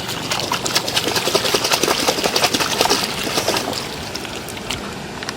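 A muddy toy bus being washed by hand in water: dense, rapid scraping and splashing that eases off after about three and a half seconds, leaving a steady sound of running water.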